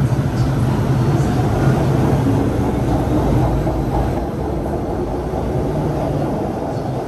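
Steady running noise of an MTR Disneyland Resort Line M-Train heard from inside the car, with a low hum that fades about four seconds in.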